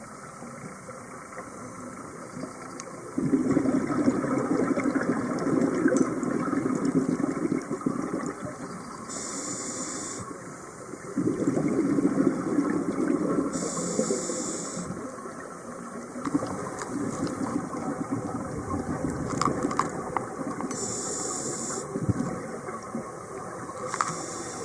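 Scuba diver breathing through a regulator underwater: three long rushes of exhaled bubbles, each followed by a short, high hiss of inhalation.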